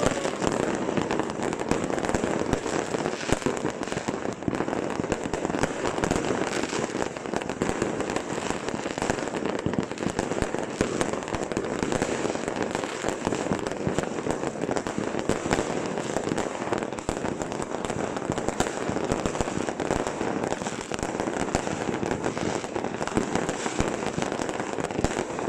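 Fireworks going off in a dense, continuous barrage: many overlapping bangs, pops and crackles with no pause.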